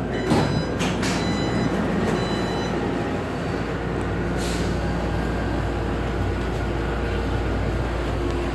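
Inside a Taipei Metro C381 train car: a steady low hum from the train, with a few sharp knocks in the first couple of seconds and another about four and a half seconds in.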